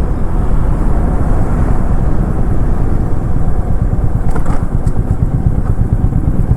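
Royal Enfield Meteor 350's single-cylinder engine running as the motorcycle is ridden, its rapid low pulsing mixed with a steady rushing noise.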